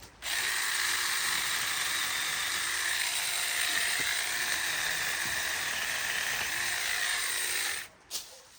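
Chainsaw running steadily at high speed for about seven and a half seconds. It starts sharply and cuts off suddenly near the end.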